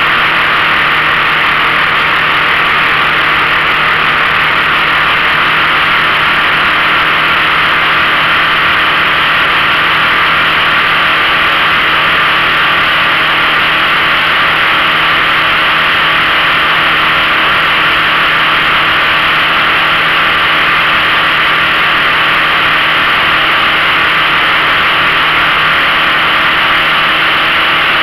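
A 15 hp outboard motor running steadily at an even speed, a loud, unbroken drone.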